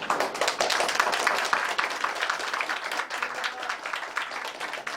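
Audience applauding: many hands clapping together, beginning at once and slowly thinning out toward the end.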